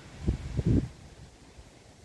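Wind buffeting the microphone in a few low rumbling gusts just under a second in, then a faint steady hiss.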